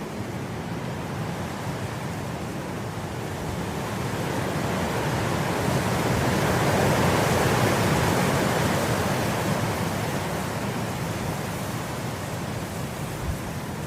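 Wind blowing through grass, a gust swelling to its loudest about halfway through and then easing off again.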